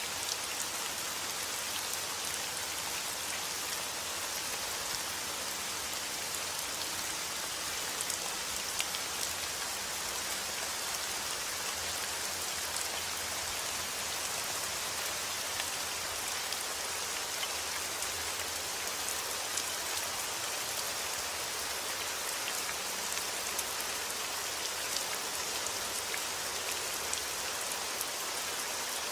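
Heavy rain falling steadily, a dense even hiss of drops with scattered individual drops ticking on surfaces.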